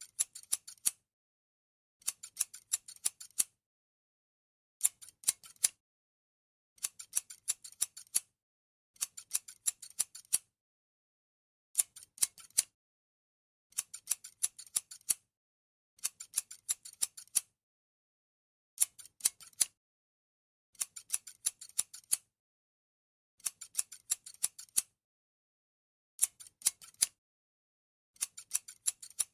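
Scissors snipping: runs of several quick, crisp snips, one run about every two seconds, with silence between.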